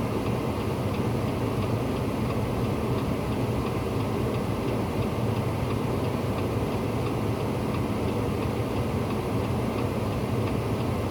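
A vehicle running, a steady low noise, with a faint, regular light ticking over it.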